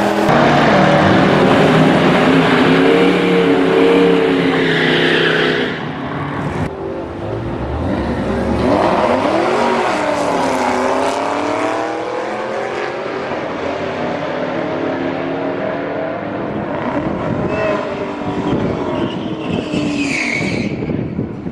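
Loud supercar engine sound at a drag race: engines running hard, their pitch climbing and falling again and again as they rev and change gear. The level drops about six seconds in.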